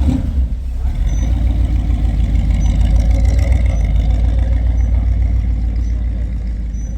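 A car engine running steadily close by, with a strong low rumble.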